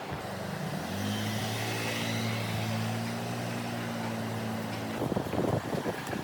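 A motor hums steadily at one pitch, then gives way about five seconds in to irregular rasping and knocking.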